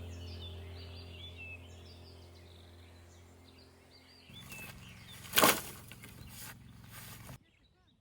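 Small birds chirping over a steady low hum that fades. About four seconds in a rushing noise takes over, with a loud brief burst a second later, and it cuts off sharply near the end.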